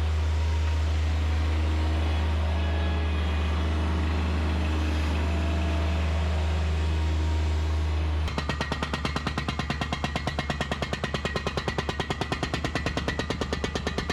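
Bobcat MT100 mini track loader's engine running steadily. About eight seconds in, a hydraulic breaker starts hammering concrete in a rapid, even run of blows, several a second.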